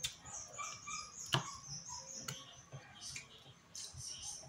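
Quiet eating sounds: chewing and mouth smacks with a few sharp clicks, about three in all. Faint, short, high chirps come and go behind them.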